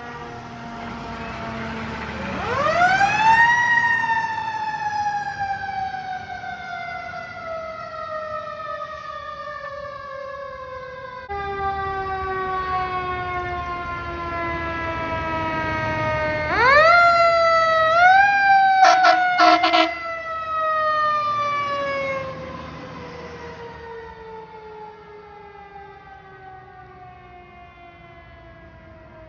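Fire truck's mechanical siren winding up steeply, then coasting slowly down in pitch for many seconds. It is wound up again twice in quick succession more than halfway through, then slowly winds down, fading.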